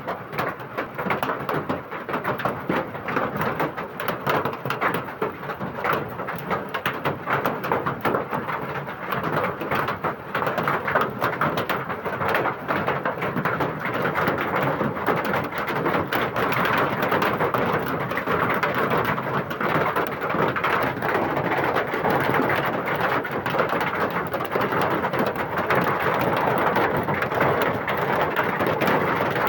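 Hail and heavy rain pelting down: a dense clatter of countless small hits on hard surfaces, growing steadier and fuller from about halfway.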